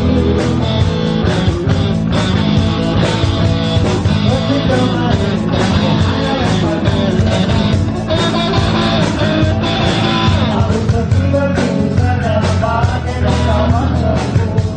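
Rock band playing a song: electric guitars, bass and drums keeping a steady beat, with a voice singing.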